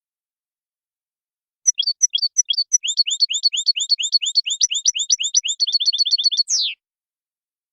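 European goldfinch singing a Wadani-style song. A rapid string of high, repeated chirping notes begins about two seconds in, quickens into a fast trill and ends on a downward-sliding note.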